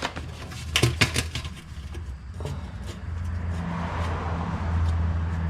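A few sharp clicks and light metal knocks in the first second or so, from handling the transmission pan bolts and tools. From about two and a half seconds in, a steady low hum builds and holds.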